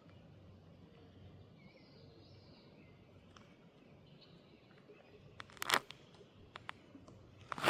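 Quiet creekside ambience with faint bird chirps, then a short cluster of sharp crunching clicks about five and a half seconds in and again near the end.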